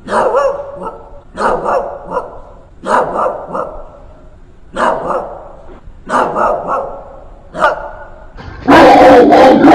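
Aggressive dog barking: sharp, separate barks about a second apart. Near the end, a much louder, continuous sound takes over.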